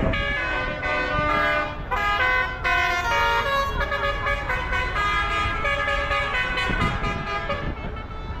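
Vehicle horns tooting a run of notes at different pitches, in a tune-like pattern, over the steady low rumble of tractor engines.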